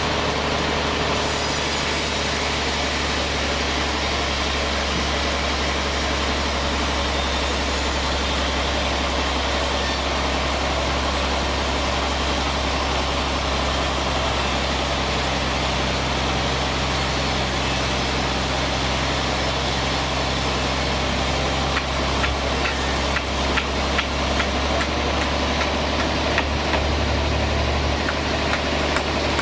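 Sawmill band saw running with a steady low drone. About three-quarters of the way in, a run of irregular clicks and knocks joins it.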